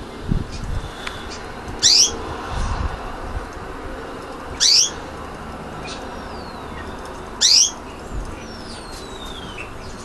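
Budgerigar giving three loud, short calls, each a quick downward sweep, about three seconds apart, with fainter thin falling chirps between them.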